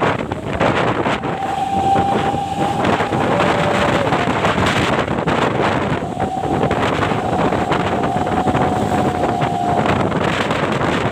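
Heavy road and vehicle noise with strong wind on the microphone. A thin steady high tone sounds for about two seconds starting just over a second in, and again for nearly four seconds starting around six seconds in.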